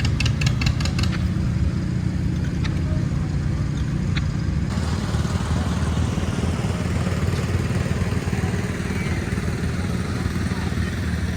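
An engine idling steadily, with a fast rhythmic clatter of about six or seven knocks a second over the first second.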